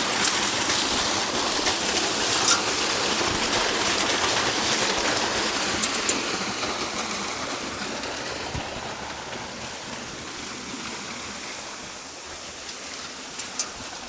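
Steady rushing water, like a stream, that fades over the second half, with a few sharp clicks on top.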